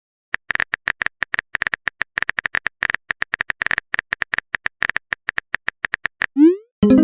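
Phone keyboard typing sound effect: a quick, slightly uneven run of small clicks, about seven a second, for about six seconds. Near the end comes a short rising swoosh, like a message being sent, then the start of a chime.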